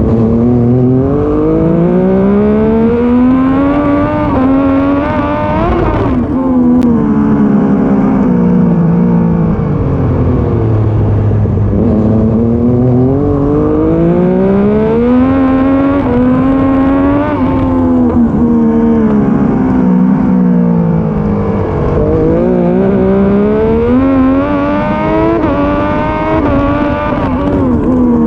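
Triumph Daytona 675 racing motorcycle's three-cylinder engine at race pace, its revs climbing and falling away three times as it accelerates and slows, with a sudden break in the engine note about six seconds in.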